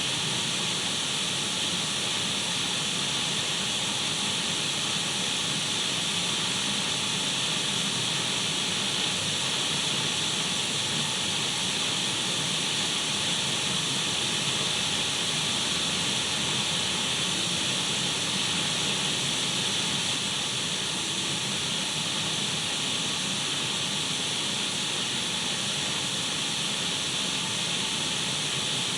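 Radio static: a steady, even hiss, brightest in the high range, with a few faint steady tones running through it.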